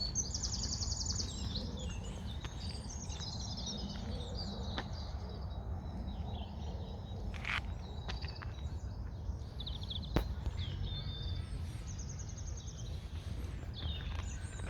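Songbirds chirping and calling, with a rapid high trill near the start and another near the end, over a steady low rumble. A single sharp click about ten seconds in.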